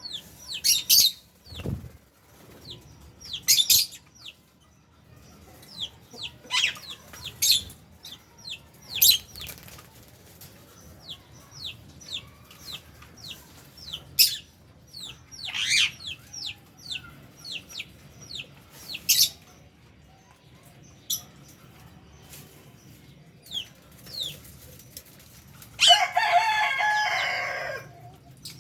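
A flock of aviary lovebirds and budgies chirping: a steady stream of sharp, high, quick chirps, with a longer, lower call near the end.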